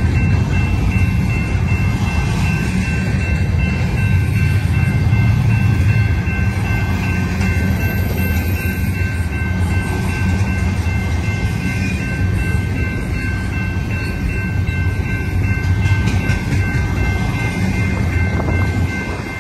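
BNSF double-stack intermodal train rolling past close by: a steady, loud rumble of the wagons' wheels on the rails, with a steady high-pitched ringing tone held over it.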